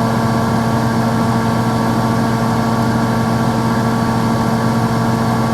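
Kitchen range-hood fan running with a steady hum.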